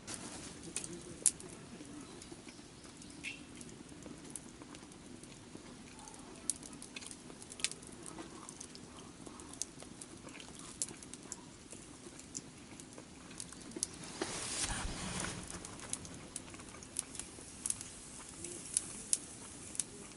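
Wood campfire crackling: scattered, irregular sharp pops over a faint steady hiss, with a louder rushing swell about fourteen seconds in that lasts a couple of seconds.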